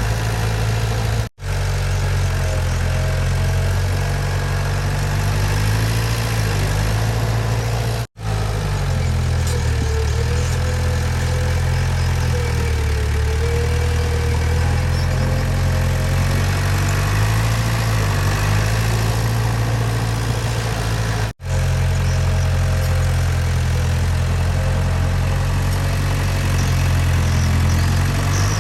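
Heavy diesel earthmoving-machine engine running steadily, with small shifts in pitch. The sound cuts out for an instant three times.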